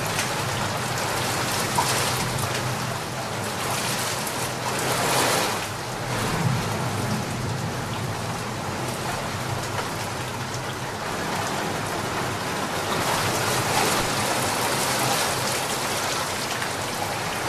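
Steady rain falling on a garden pond, a continuous patter that swells and eases a couple of times.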